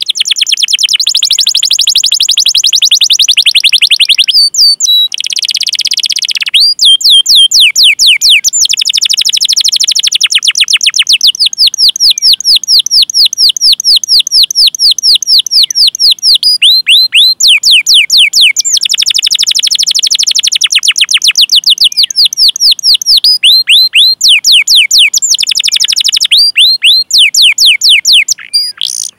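Domestic canary singing long rolling trills of fast repeated 'cuit cuit' notes, about eight to ten a second, switching to a new note type every few seconds with a couple of brief breaks.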